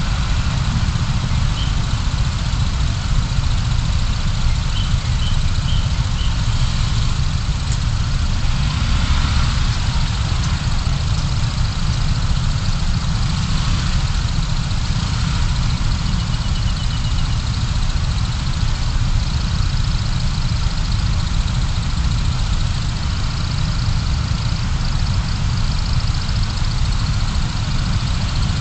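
Steady low rumble of a car's engine and road noise, as picked up inside the cabin by a dashcam.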